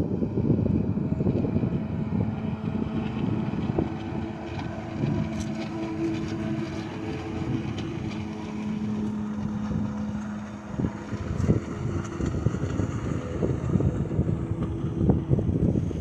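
Jet ski engine running out on the water: a steady drone that grows stronger about eight seconds in and fades out around eleven seconds. Wind buffets the microphone throughout.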